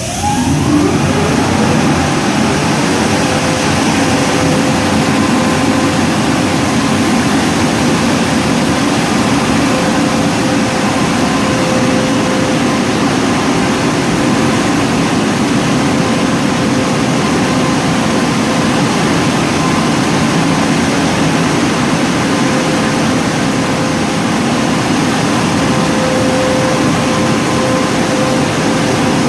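WashWorld Razor car wash's on-board dryer blower spinning up with a rising whine, then running steadily: a loud rushing noise with a steady whine in it.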